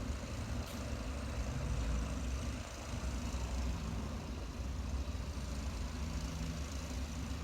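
Steady low drone of a motor running in the background.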